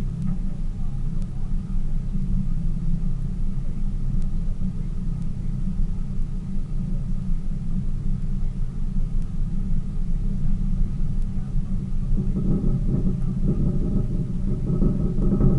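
Tour boat's engine running steadily under way, a continuous low rumble; about twelve seconds in it grows fuller and a little louder, as if the boat picks up speed.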